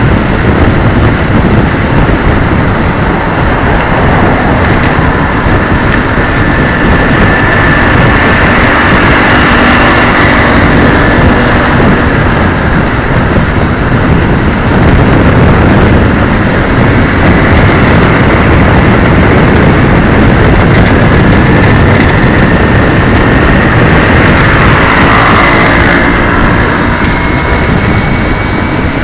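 Loud, steady rush of wind and road noise while riding, under which a small motorcycle engine's pitch rises and falls twice. The engine is likely the 150cc engine of the NomadOmatic x2 trike.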